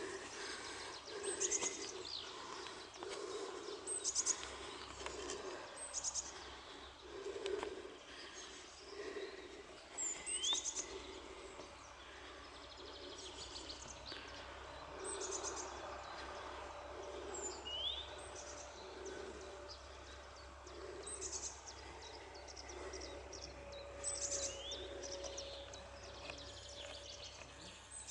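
Small songbirds singing: short high chirps every second or two, with a quick falling whistled note recurring every several seconds. Underneath are soft low thuds about once a second and a faint steady hum in the second half.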